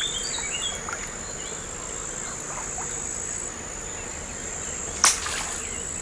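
Steady high-pitched insect trill in outdoor ambience, with a single sharp smack about five seconds in.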